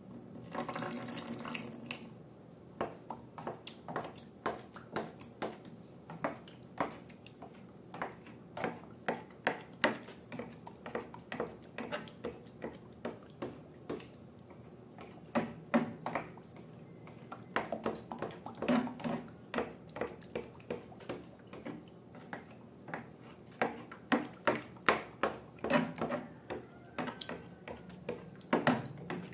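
Slime being poured and then squeezed and worked by hand: a short gush of about two seconds, then a long run of irregular sharp clicks and pops, several a second.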